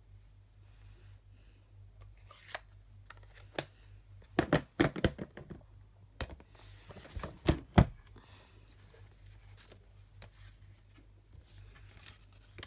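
Papercraft tools and card stock being handled on a craft desk: scattered sharp taps and knocks, with a quick run of them about four to five seconds in and a couple more, the loudest, about seven and a half seconds in.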